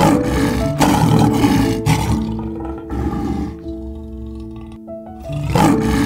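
A lion roaring: a series of rough calls about a second apart, then one more after a pause near the end, over soft piano music.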